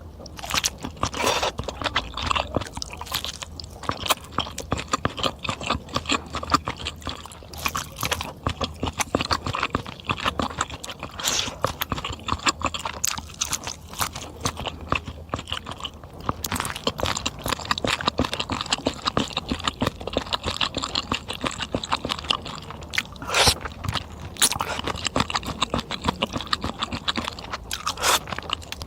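Close-miked eating sounds: continuous chewing and biting with a dense run of small crunches and crackles, as in ASMR mukbang.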